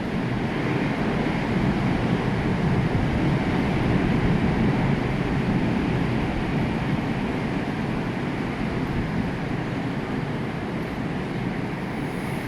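Rough, storm-driven sea surf breaking in a steady low rumble, swelling a little a few seconds in and easing after, with wind buffeting the microphone.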